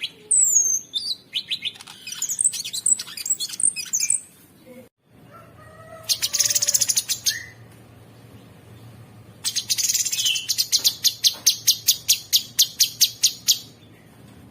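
Cucak sungkok singing. First a run of varied chirps and whistled glides, then a break about five seconds in. After the break come a short rapid trill and a longer fast trill of evenly spaced sharp notes.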